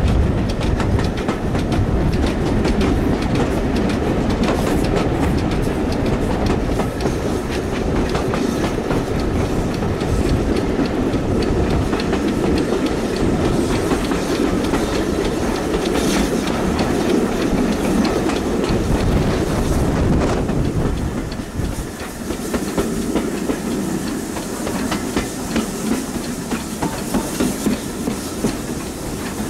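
Railway carriage running along the track: a steady deep rumble with the clickety-clack of wheels over rail joints. About two-thirds of the way through the deep rumble falls away and the wheel clicks stand out in a regular beat.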